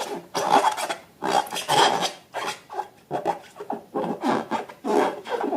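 Hands squishing and working slime, making irregular bursts of crackly rubbing noise with short pauses between them.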